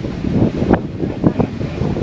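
Beehive Geyser in eruption: its jet of water and steam makes a loud, rough rushing noise that surges unevenly.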